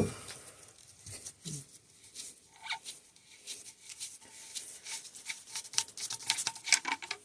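Irregular small clicks, taps and scrapes of tools and metal fork parts being handled on the workbench, growing denser in the last two seconds.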